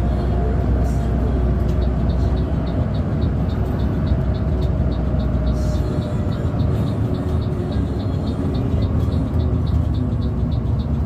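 Cabin noise of a moving intercity bus: steady engine and road rumble, with music playing over it and a light, regular ticking.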